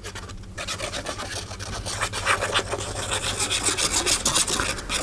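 Rapid, continuous scraping and rubbing strokes, a hand working vigorously against paper, starting about half a second in.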